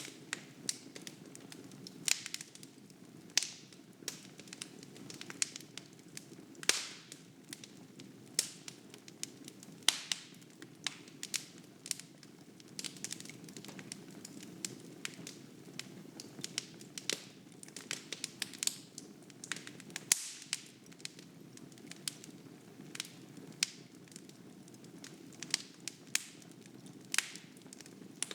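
Wood fire burning in a fireplace: irregular sharp crackles and pops from the burning logs over a steady low rush of flames.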